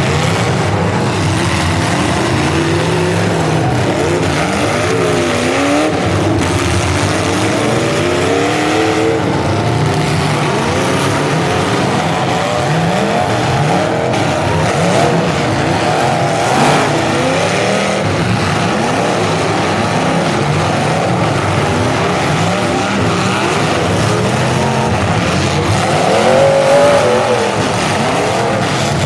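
Several full-size demolition derby cars' engines revving at once, their pitches rising and falling over one another in a dense, steady din, swelling louder a couple of times near the end.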